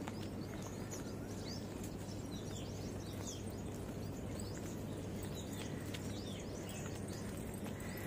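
Small birds chirping in the trees: many short, high calls that sweep downward, scattered throughout over a steady low background hum.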